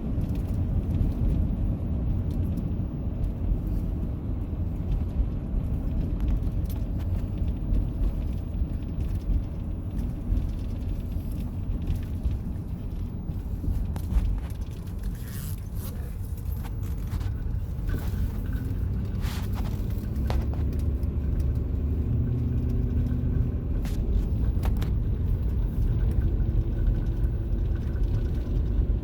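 A car driving, heard from inside the cabin: a steady low rumble of engine and road noise, with a few light clicks in the second half.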